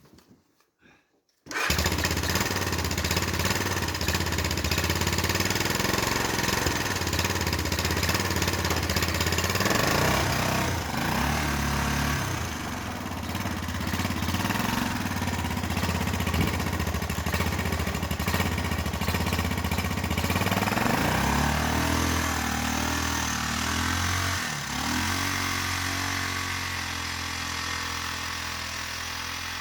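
ATV (four-wheeler) engine running, its note shifting with the throttle a couple of times and easing off near the end; the sound cuts in suddenly about a second and a half in.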